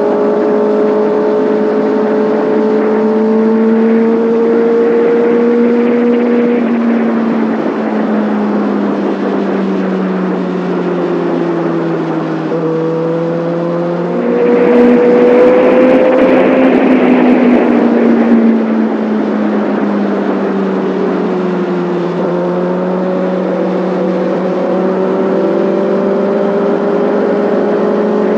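Kawasaki Ninja ZX6R inline-four engine and exhaust heard from the rider's seat while riding, the note rising and falling gently with throttle and speed. About halfway through it gets louder for a few seconds, the pitch climbing under acceleration with a rushing hiss, then it eases back to a steady cruise.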